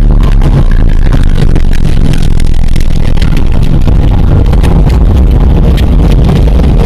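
Loud, steady low rumble with scattered crackling, a storm sound effect of rolling thunder.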